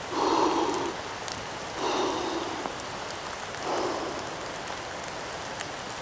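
Steady rain falling, with the patter of many individual drops. Three short, louder sounds stand out over it in the first four seconds or so.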